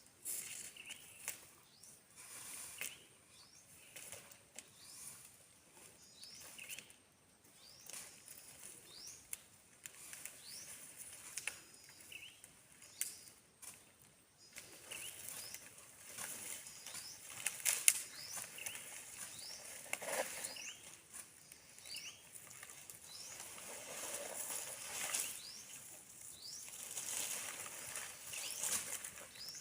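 Outdoor countryside ambience: a bird repeating short rising chirps every second or two over a steady high hiss of insects, with scattered rustling and crackling that grows busier in the second half.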